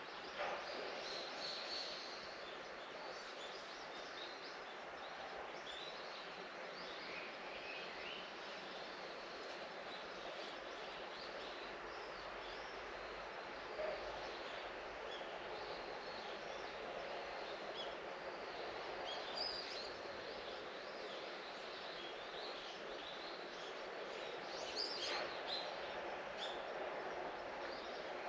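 Outdoor ambience: a steady background hiss with scattered short bird chirps, a few louder ones near the start and toward the end.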